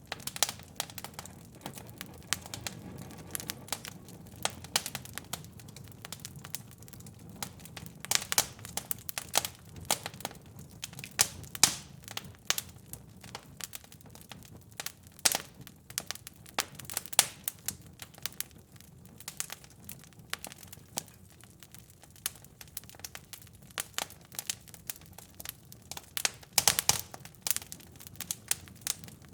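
Wood fire burning in a fireplace: irregular sharp crackles and pops over a low steady rumble of the flames, with a few louder pops scattered through.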